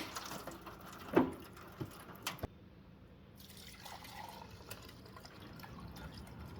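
Gasoline draining and dripping from a lawn mower's fuel tank into a pan, with a few sharp knocks in the first couple of seconds as the mower and pan are handled.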